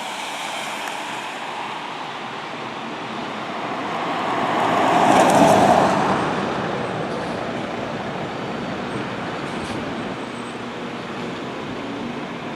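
A road vehicle passing by: traffic noise swells to a peak about five seconds in, then fades back to a steady roadway hum.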